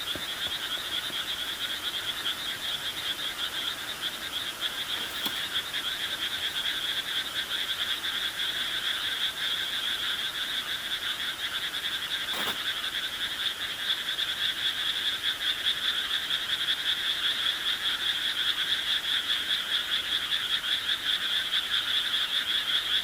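Dense, steady chorus of many calling animals, a fast trilling buzz that grows a little louder in the second half, with two faint clicks about five and twelve seconds in.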